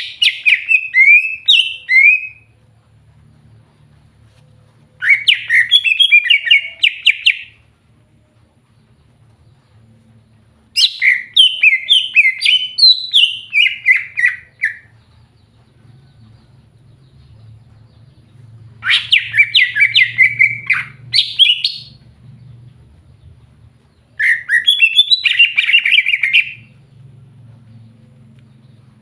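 Green leafbird (cucak hijau) singing in five bursts of rapid, varied chirping notes, each lasting two to four seconds, with short pauses between them.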